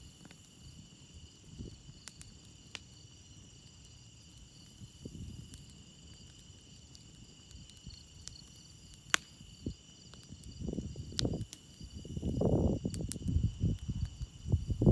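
Crickets chirping steadily while a campfire crackles with scattered sharp pops. A low rumbling noise swells in and out over the last few seconds.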